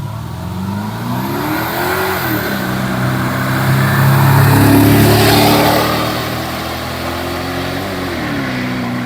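Porsche Cayenne Turbo's twin-turbo V8 with the muffler cut off, accelerating hard. The engine note climbs, drops at an upshift about two seconds in, climbs again to its loudest around the middle, and falls at another shift near the end.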